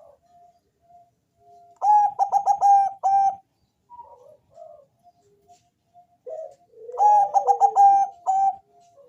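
Perkutut bangkok (Thai-bred zebra dove) singing: two loud phrases of quick, repeated cooing notes, about two and five seconds apart, each lasting about a second and a half, with faint short calls in between.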